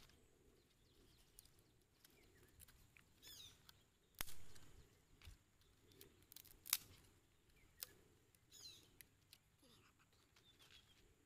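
Near silence, broken by faint bird chirps twice and a few sharp clicks.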